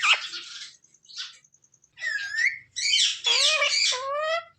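Indian ringneck parrot calling: a harsh squawk at the start, a short chirp about a second in, then a run of loud, wavering calls from about two seconds in.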